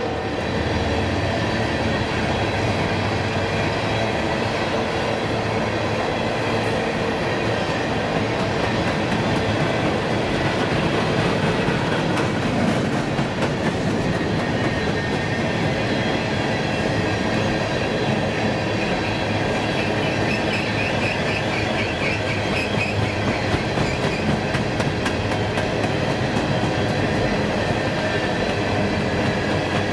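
Train rolling past close by: a steady rumble of wheels on rail. A wavering wheel squeal comes about two-thirds of the way in, and a clickety-clack of wheels over rail joints grows clearer near the end.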